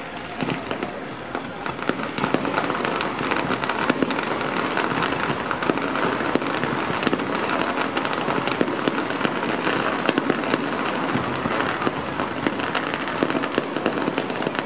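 Aerial fireworks barrage: a dense, continuous run of bursts and crackling, many pops a second, growing louder about two seconds in and staying loud.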